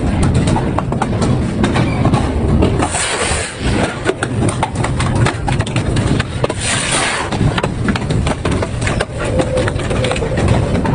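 Double-shaft industrial shredder tearing up metal: a dense run of cracking and crunching over a heavy low rumble, with two brief high hissing screeches about 3 and 7 seconds in.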